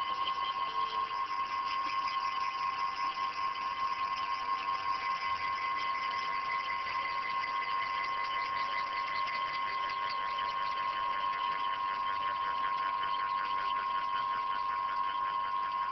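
Stepper motors of a CNC hot-wire foam cutter running as the wire cuts a foam wing core: a steady high whine with a fast, even buzzing pulse over it, strongest in the middle.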